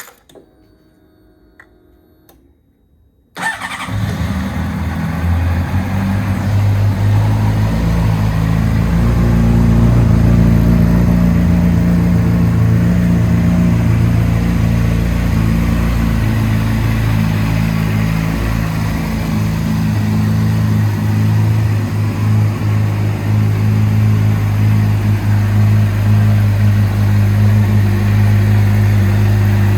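Honda CBR600RR's inline-four engine, breathing through a Yoshimura RS-R slip-on exhaust, is started about three seconds in after a few faint clicks. It then idles steadily, settling a little higher by about ten seconds in.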